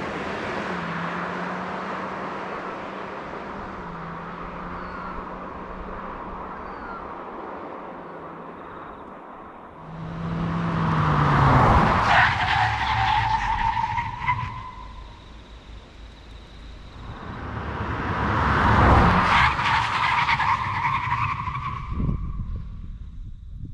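A Kia Seltos small SUV driving past on the road, with tyre and engine noise. Early on it fades away into the distance. Then it swells up and passes twice, loudest about twelve seconds in and again about nineteen seconds in, the pitch sweeping as it goes by.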